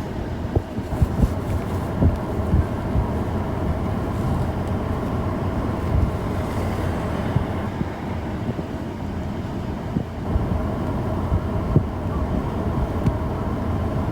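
Steady road and engine rumble inside a moving car's cabin, with scattered light knocks.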